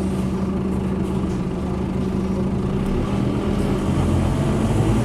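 Scania N230UD double-decker bus's five-cylinder diesel engine running steadily at idle, then starting to pull and getting a little louder near the end.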